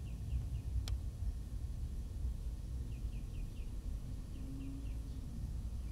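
Low steady background rumble with faint bird chirps in three short runs of four or five quick notes, and a single sharp click about a second in.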